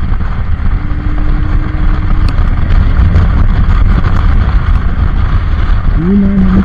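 A vehicle running steadily, with a loud low rumble. A person's voice comes in near the end.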